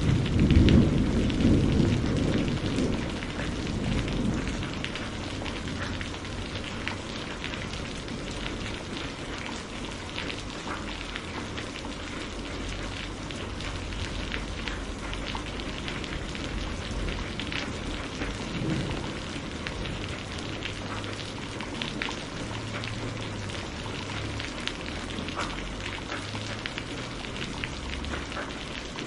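Steady rain, with a roll of thunder rumbling loudest about half a second in and dying away over the first four seconds. Scattered sharp crackles run through the rain.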